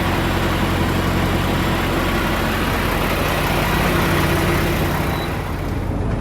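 Semi truck's diesel engine idling steadily, under a loud even hiss that fades away near the end.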